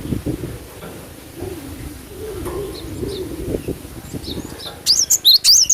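Cinereous tit (gelatik batu) giving a quick burst of loud, high chirping notes near the end. Before that, a dove coos low in the background.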